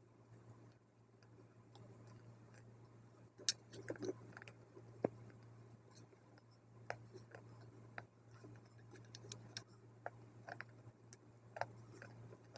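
Scattered faint crunches and sharp clicks of a person chewing dry multani mitti (fuller's earth clay) close to the microphone, over a steady low hum.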